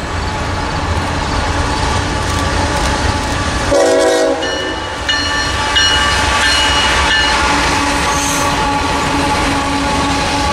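Diesel freight locomotives passing with a steady rumble. The air horn sounds about four seconds in, a short blast and then a longer one of about two seconds. The empty coal hoppers then clatter past on the rails.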